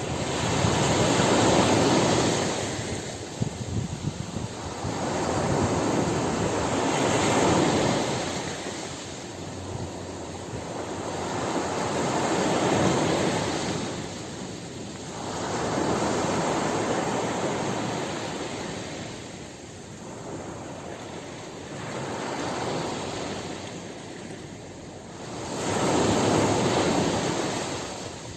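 Ocean surf breaking on a beach, each wave swelling up and washing back in a slow rhythm, about one every five seconds and six in all.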